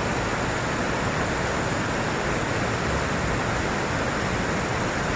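Steady rush of whitewater from a waterfall and rapids on a river, even and unbroken, close to the microphone.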